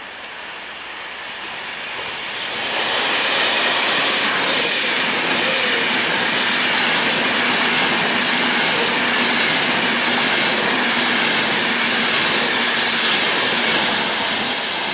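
Class 390 Pendolino electric train running past the platform: a rushing noise of wheels and motors that builds over the first few seconds, then holds loud and steady.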